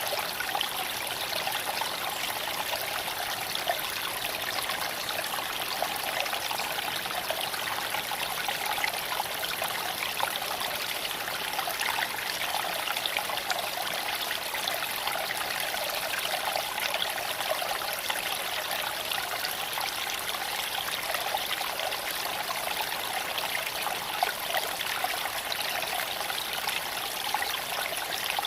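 Creek water flowing over stones, a steady babbling rush.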